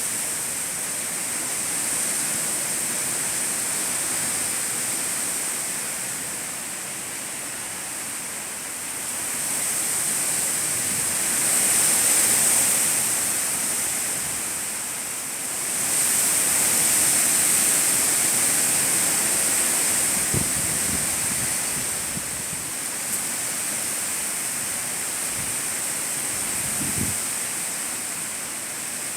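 Storm rain and strong wind as a steady rushing noise that swells twice and eases off again, with a couple of brief low thumps in the second half.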